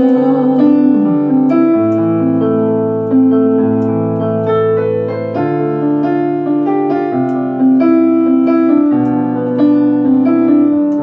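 Solo piano playing a slow ballad interlude: sustained chords over a moving bass line, with no voice.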